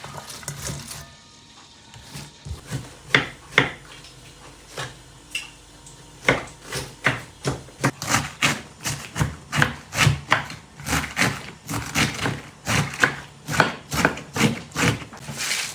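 Repeated sharp knocks on wood: a few scattered strikes at first, then from about six seconds in a steady run of about two to three strikes a second.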